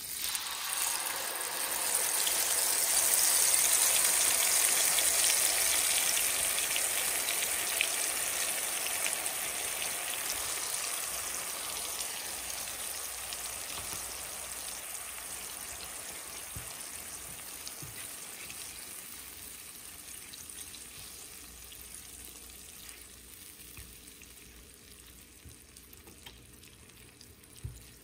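Yogurt mixture poured into a hot nonstick frying pan of oil and fried spices, sizzling loudly at once and then fading slowly as it keeps frying. A soft knock near the end.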